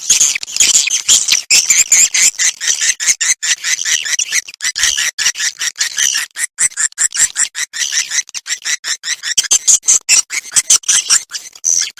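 Recorded swiftlet calls: a dense, unbroken stream of rapid high chirps and twitters. This is a roosting ('inap') lure call of the kind played in swiftlet houses to draw birds in to roost.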